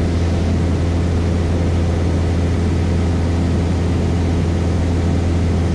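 Cessna 172 Skyhawk's four-cylinder piston engine and propeller running steadily at cruise, heard as a constant low drone inside the cockpit.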